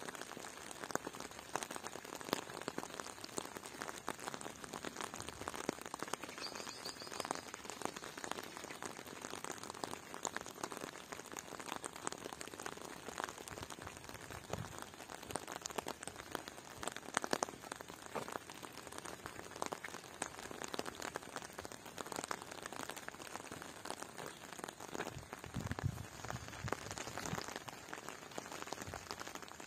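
Steady rain, a dense, even patter of many small drops.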